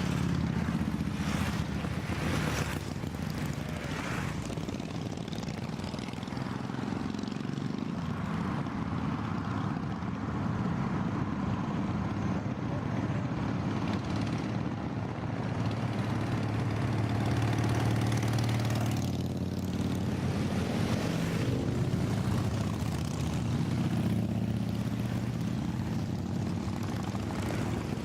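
A long line of motorcycles riding past, their engines blending into a continuous low rumble that dips a little and swells again.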